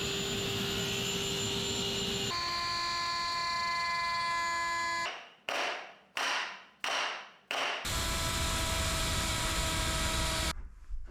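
A woodworking power tool running with a steady whine, then cutting in four times in short bursts that each fade away, running steadily again and stopping abruptly near the end.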